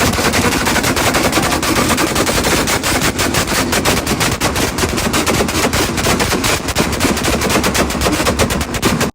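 A car's engine held on a two-step launch-control rev limiter, the exhaust popping and banging in a loud, rapid, continuous crackle like machine-gun fire.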